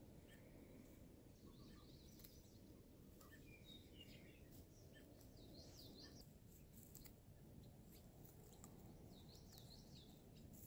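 Near silence: a faint low rumble with short, high chirps of small birds several times, and a few faint clicks.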